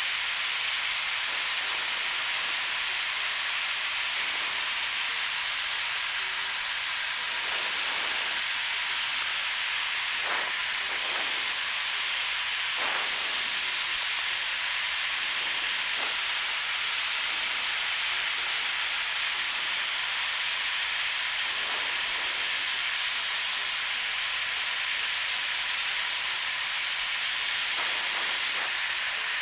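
Steady hiss of cockpit noise inside a Piper Archer II in flight, even in level throughout, with no words.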